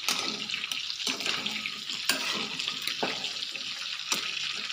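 Chicken pieces sizzling in hot oil in a pan: a steady, dense sizzle, with a spatula scraping or knocking the pan about once a second as the meat is stirred.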